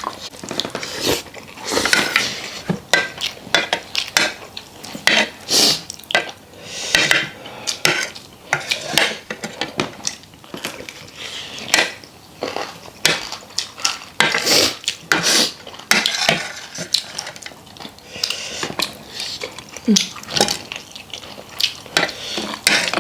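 Irregular clinks and scrapes of cutlery against plates and bowls while eating a meal.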